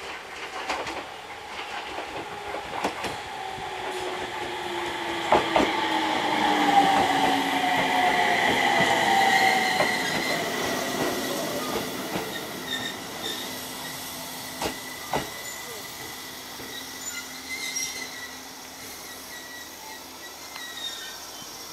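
Train pulling into the station and slowing to a stop: wheels click over rail joints, a whine falls slowly in pitch, and a thin high brake squeal holds on as it comes to a halt. It is loudest about a third of the way in and then fades.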